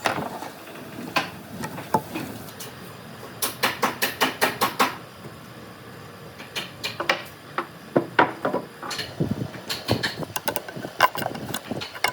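A series of sharp taps and knocks, as of tools and pieces of wood being handled, with a quick run of about six taps a little over three seconds in and scattered knocks after.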